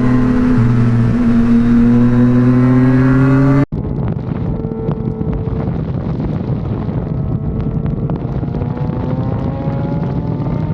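Motorcycle engine running and pulling with a slowly rising pitch. About three and a half seconds in it cuts off abruptly to a second, duller stretch of engine sound that also climbs slowly in pitch.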